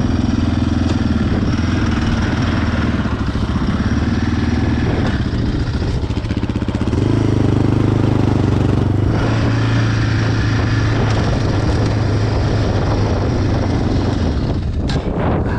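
Yamaha Raptor 660 quad's engine running hard under load on a snowy hill climb; the engine note shifts and grows louder about seven seconds in and eases off near the end.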